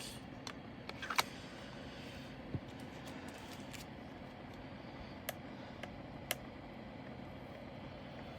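Faint, scattered light clicks and taps of small plastic drill containers and loose resin diamond painting drills being handled, a few in the first second or so and two sharper ones around five and six seconds in, over a steady low hum.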